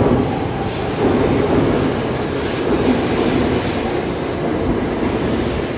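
923 series Doctor Yellow Shinkansen test train rolling slowly into the platform: a steady rumble of wheels and running gear as the cars pass close by.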